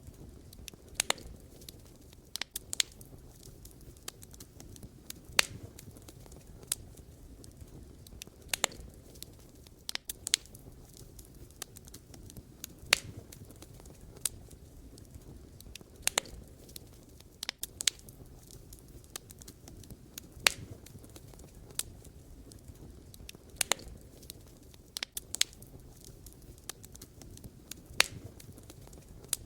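Wood fire burning, with sharp irregular crackles and pops from the burning logs, one or two a second, over a low steady rumble of the flames.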